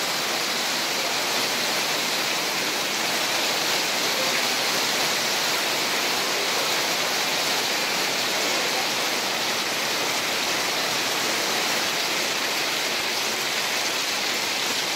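Heavy rain falling steadily, pelting the polycarbonate carport roof and splashing onto the wet, puddled pavement.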